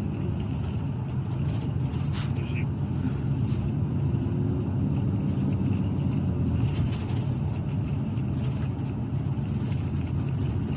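Steady road and engine noise inside a moving patrol car: a continuous low rumble, with a few faint clicks.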